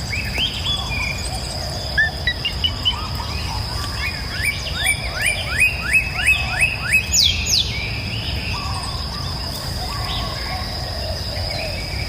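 Songbirds singing and chirping, one bird giving a quick run of about eight rising whistled notes in the middle, over a steady high insect-like drone and the low, even rush of a river.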